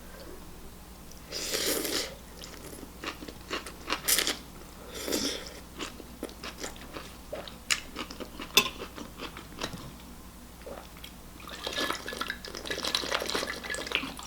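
Close-up eating of noodle soup: chewing with several short noisy slurps, among many small clicks.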